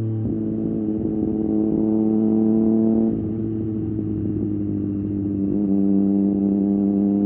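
Triumph Street Triple 765 RS's inline three-cylinder engine running through an Akrapovic exhaust while riding at steady revs. The throttle eases off about three seconds in, lowering the note, and it picks up again toward the end.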